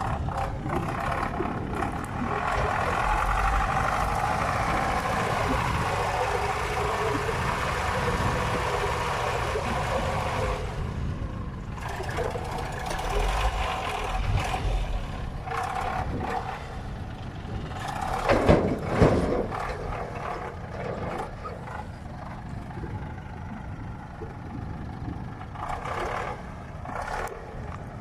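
GAZ-66 truck working hard up a slope of fresh wet snow and failing to make the climb: a deep rumble with a steady whine that holds for about the first ten seconds, then uneven and surging. About two-thirds of the way through come two brief loud bursts of noise.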